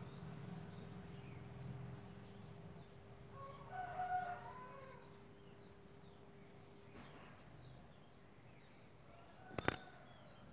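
Faint bird chirps throughout, with a longer drawn-out call about four seconds in and a single sharp click near the end.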